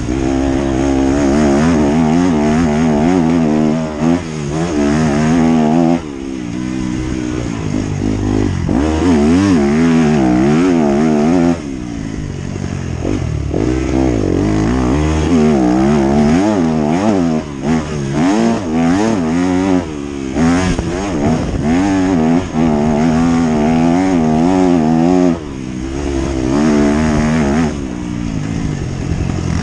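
Motocross bike engine being ridden hard, its pitch climbing and falling over and over as the throttle is opened and closed, with abrupt drops in level several times as the throttle is shut off.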